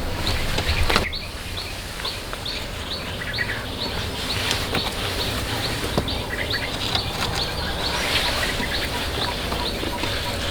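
A bird's short high chirp repeating steadily, about twice a second, with a few sharp knocks in between.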